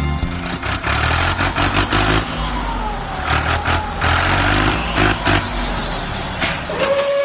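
A motor vehicle engine running and revving, with clattering and knocks. Near the end a steady, high whistle-like horn tone starts and holds.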